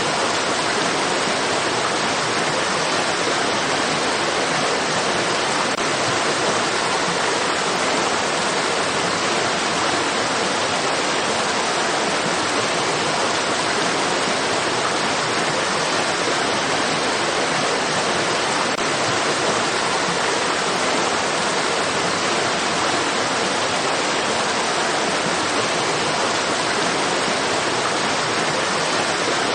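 Stream water rushing steadily, an even, unchanging hiss of running water.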